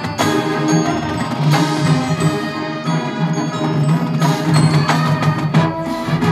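Marching band playing a field show, with struck mallet-percussion notes and other percussion hits over sustained band chords.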